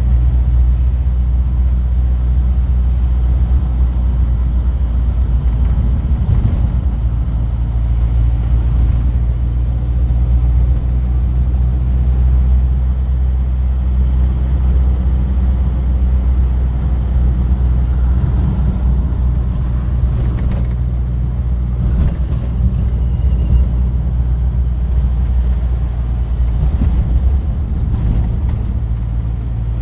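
Classic car's engine and road noise heard from inside the cabin while driving at a steady pace: a constant low drone, with a few faint ticks and knocks now and then.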